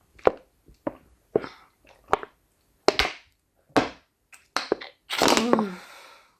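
A person gulping water thirstily: a string of sharp, clicky swallows at uneven intervals, then a longer breathy exhale about five seconds in.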